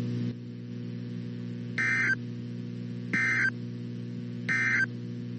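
Three short, screechy digital data bursts of an Emergency Alert System end-of-message signal (SAME/EOM), about a second and a half apart, marking the end of the alert. A steady low hum runs beneath them.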